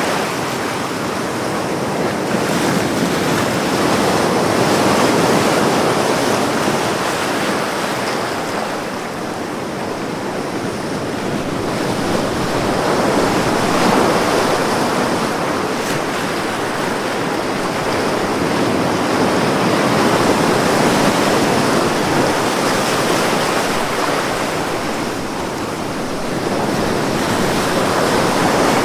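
Ocean waves breaking and washing on a beach, a steady surf that swells and eases every few seconds.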